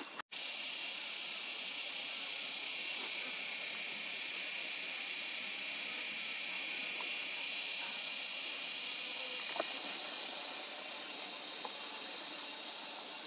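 A steady, high-pitched buzzing chorus of insects that starts suddenly and holds even, easing slightly near the end. A faint click comes about ten seconds in.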